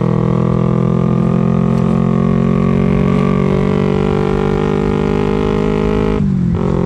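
Kawasaki Ninja 250 carburetted parallel-twin engine pulling steadily as the bike rides along, its pitch rising slowly, with a brief break in the sound about six seconds in.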